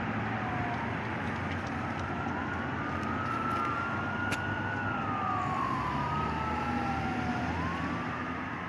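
Fire engine siren wailing, its pitch sliding slowly up and down over a few seconds, at times with two overlapping tones, over a steady low engine rumble.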